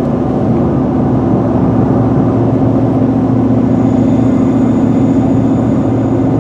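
Car driving along: steady engine and road noise with a constant low hum.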